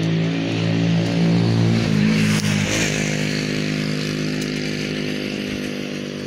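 An engine running steadily, growing louder to a peak about two seconds in, its pitch dropping a little just after, then slowly fading.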